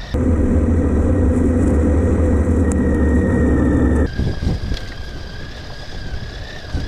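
Motorcycle running on the move, with a steady high whine throughout. A loud low rumble starts suddenly at the outset and cuts off sharply about four seconds in, leaving the quieter engine sound.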